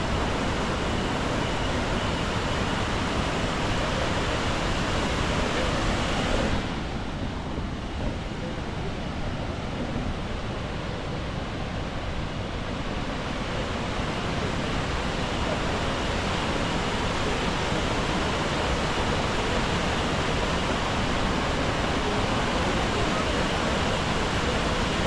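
Steady roar of the Iguazú Falls cascades, a dense, even rush of falling water. About six seconds in the high hiss thins out and the rush goes on a little softer, slowly building again.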